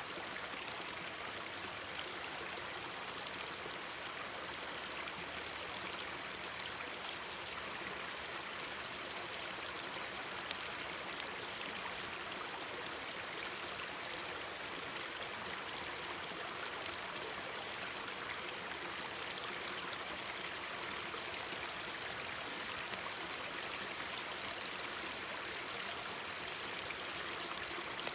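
Mountain stream babbling steadily, with two sharp pops of burning firewood about ten seconds in and a few fainter crackles.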